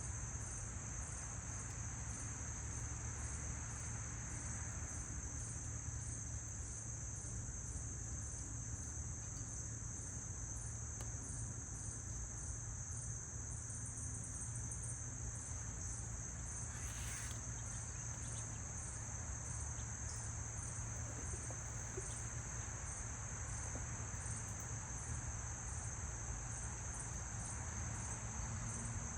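Outdoor insect chorus, a steady high-pitched trill with a fast even pulse. A brief hissing rasp cuts in about two-thirds of the way through.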